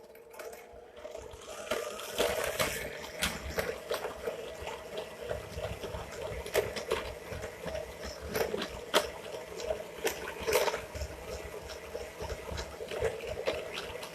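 Electric hand mixer beating butter and sugar in a small bowl: a steady motor hum under the swish of the beaters through the mixture, with frequent light knocks of the beaters against the bowl as the butter and sugar cream together.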